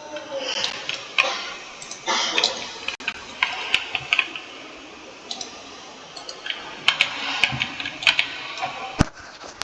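Typing on a computer keyboard: irregular key clicks, some in quick runs and some single, with a sharper, louder key strike near the end.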